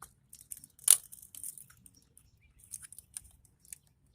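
Light clicks and scrapes of metal computer scrap parts being handled, with one sharper click about a second in.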